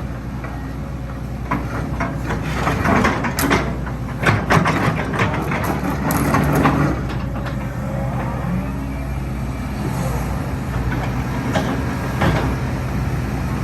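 Hitachi ZX120-3 hydraulic excavator running, its diesel engine humming steadily under a series of clanks and knocks that are busiest about three to seven seconds in.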